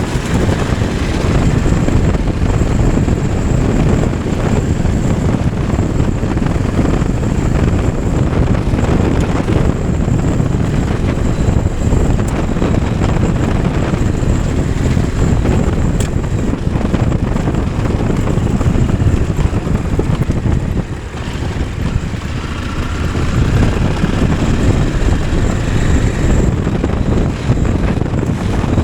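Motorcycle being ridden: the engine runs steadily under heavy wind noise on the microphone, dipping briefly about three-quarters of the way through.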